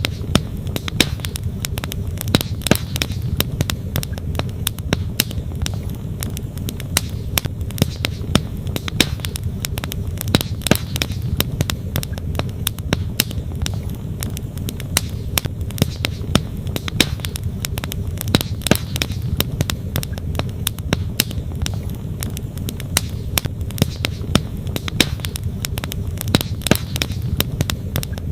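Wood campfire crackling with many quick, sharp pops, over the steady low rush of a flowing stream.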